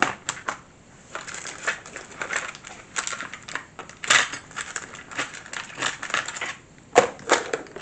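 Small plastic model-kit parts being handled and rummaged through: irregular clicking, tapping and rustling, with a sharper click about four seconds in and another near seven seconds.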